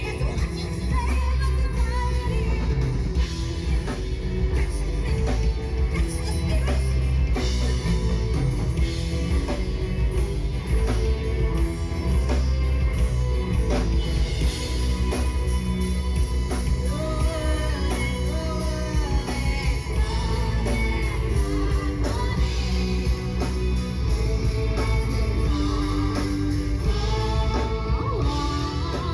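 Live rock band playing a song through a PA: electric guitar, bass and drum kit with a singer, heavy bass.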